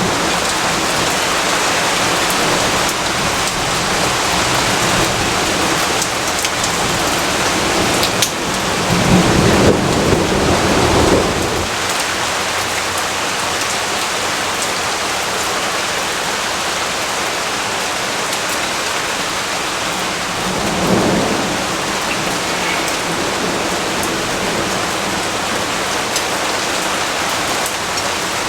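Steady heavy rainfall, with a low rumble of thunder swelling up about a third of the way in and a fainter rumble about two-thirds in.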